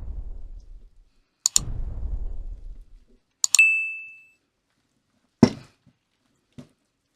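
Kitchen utensils being worked against a bowl: a low scraping, twice, then a clink that rings briefly, a sharp knock and a lighter knock.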